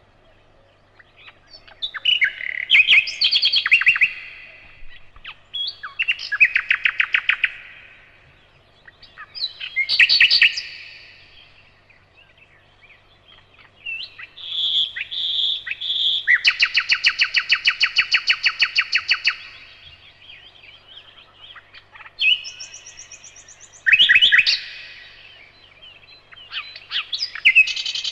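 Nightingale singing: a series of separate phrases of rapid repeated notes and clear whistles with short pauses between them. About two-thirds of the way in comes a long, fast trill of evenly repeated notes.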